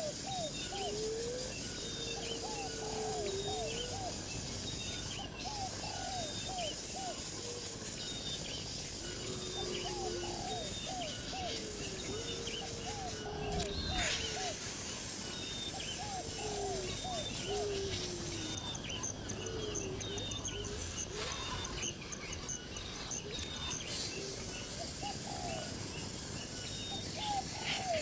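Birds calling over and over: small groups of short, falling notes mixed with longer slurred whistles, with fainter high chirps behind them.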